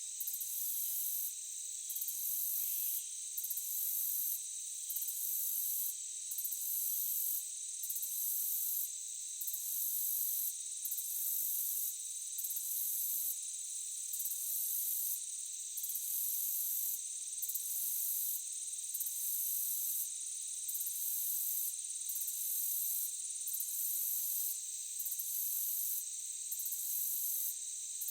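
Night insect chorus: a very high, cricket-like trill that stops briefly about every second and a half, over a steady high-pitched insect drone.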